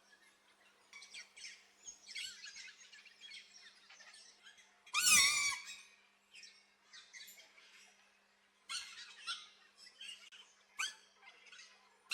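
Aviary birds chirping and squeaking in short calls, with one loud, harsh squawk about five seconds in.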